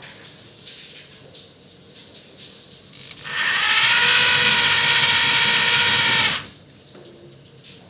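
Bosch GBH 220 rotary hammer switched on and running with a steady, high motor whine for about three seconds, then switched off.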